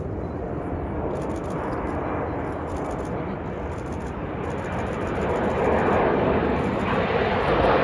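Jet engine noise from Blue Impulse's Kawasaki T-4 jet trainers, a steady rushing sound that builds and grows louder toward the end as the jets head into their takeoff.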